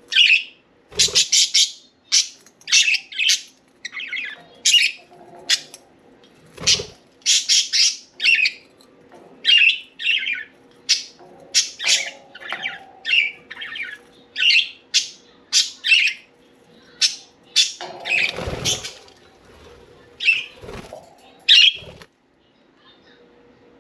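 Budgerigars chirping in quick, busy chatter: many short high calls one after another, mixed with a few thumps and a longer rustling burst about three quarters of the way in. The chirping stops shortly before the end.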